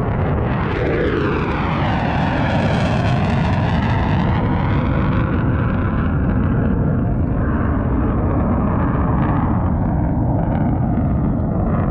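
Airplane engine noise from an aircraft flying past, a loud steady rumble with a falling sweep in pitch over the first few seconds as it passes.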